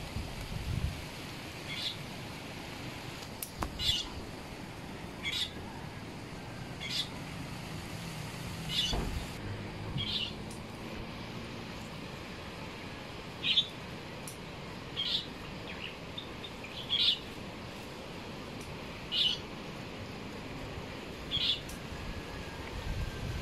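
A bird chirping over and over, one short high call every one to two seconds, over a steady background hiss, with a few low thumps in the first half.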